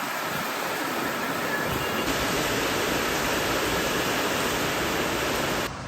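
Heavy storm rain pouring down: a loud, steady rush with no break, starting and stopping abruptly.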